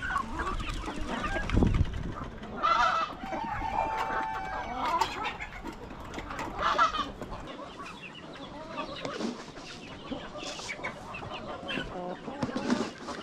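A flock of chickens clucking and calling, with many short overlapping calls and louder squawking calls about three seconds in and again near seven seconds. A low thump about a second and a half in.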